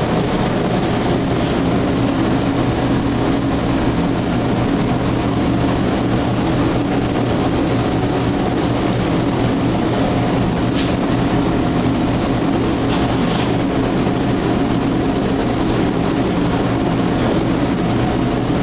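A steady, loud machine drone with a low hum, running without change; a short sharp click about eleven seconds in.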